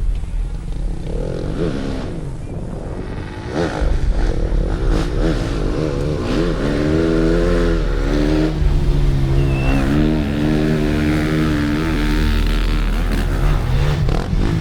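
Rally-raid motorcycle engines passing close by, revving with the pitch rising and falling and dipping several times, loudest in the second half.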